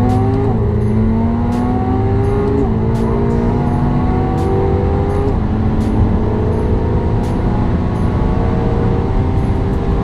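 Twin-turbo V8 sports car accelerating hard at full throttle through the gears. Engine pitch climbs steadily and drops at each upshift, about half a second in, near two and a half seconds and near five seconds, then climbs slowly through a long high gear.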